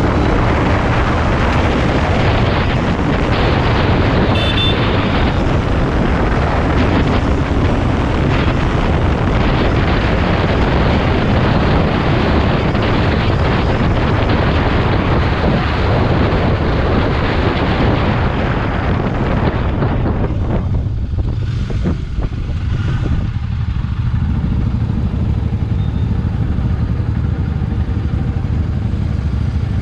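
Royal Enfield Bear 650's 648 cc parallel-twin engine running under way, heavily overlaid by wind buffeting on the camera microphone. About two-thirds of the way through the wind noise drops away as the bike slows, leaving the engine's low beat more clearly.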